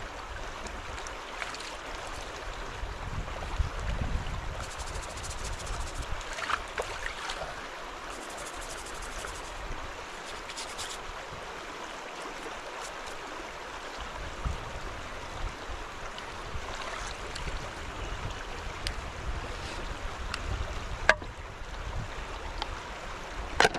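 Steady rain falling on a truck camper's roof, a constant even hiss. A few sharp clicks of something being handled inside, the loudest about three-quarters of the way through and another near the end.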